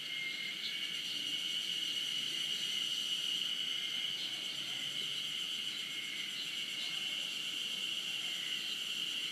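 Chorus of cicadas, spring cicadas (harusemi, Terpnosia vacua) among them, singing together in a steady, dense drone, with short single calls standing out now and then.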